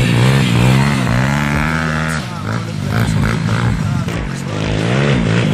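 140cc pit bike engines revving up and down, the pitch rising and falling repeatedly, with a short dip in level about two seconds in.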